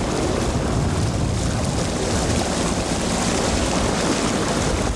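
Small boat's motor running steadily under way over floodwater, with wind noise on the microphone.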